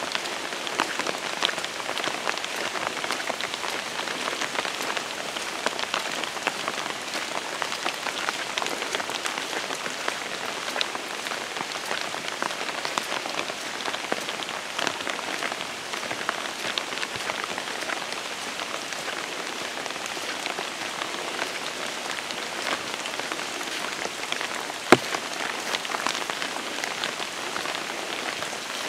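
Steady rain: an even hiss of falling rain dotted with many small drop ticks, with a single sharper click near the end.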